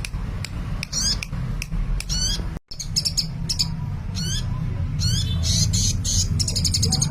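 Sunbird chirping eagerly: quick series of high, thin twittering and sweeping notes, with a brief break about two and a half seconds in. A low steady hum runs underneath.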